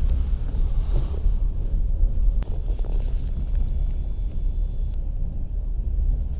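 Passenger train carriage running along the track, heard from inside: a steady low rumble of wheels on rail, with a single sharp click about two and a half seconds in.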